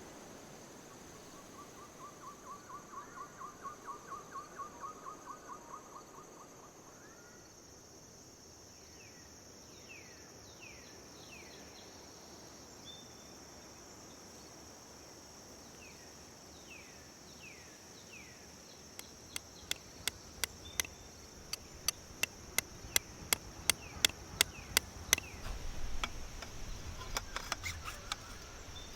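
Outdoor woodland ambience with a steady high buzz. A rapid trilling animal call lasts a few seconds early on, and short falling bird chirps come in two groups. Near the end comes a run of sharp knocks, about two a second, which is the loudest sound.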